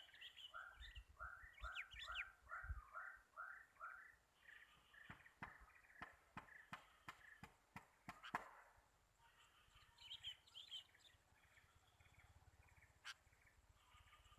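Birds calling faintly. A run of short notes repeats about three times a second, then comes a series of sharp clicks, and brief high chirps follow about ten seconds in.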